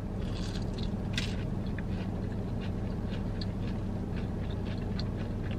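Close-up mouth sounds of someone biting into and chewing a fried onion ring: small scattered crunches and wet clicks over a steady low hum.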